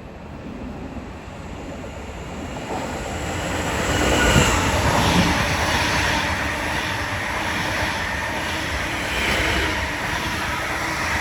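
Greater Anglia class 745 electric train passing through the station at low speed, its wheels and running gear rumbling on the rails, growing louder to a peak about four seconds in and staying loud as the carriages go by.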